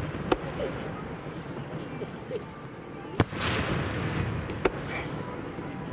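Aerial firework shells bursting: three sharp bangs, the loudest about three seconds in and trailed by a brief crackle, over a steady low rumble of the display.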